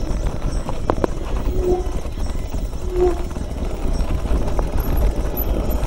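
Mountain bike clattering and knocking along a trail, with wind rumbling on the microphone. Two short squeaks come about two and three seconds in.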